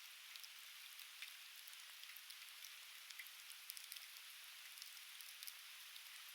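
Softwood campfire crackling faintly, with scattered sharp pops and ticks over a steady hiss.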